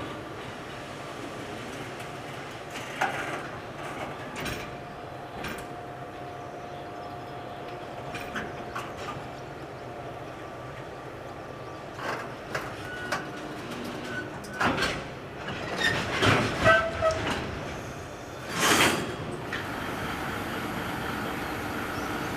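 Freight train hauled by an ED76 electric locomotive moving slowly through a station yard: a steady rumble with a thin held squeal early on, then a run of clanks and short wheel squeals about two-thirds of the way through, and a loud burst of noise a few seconds before the end, after which a steady hum remains.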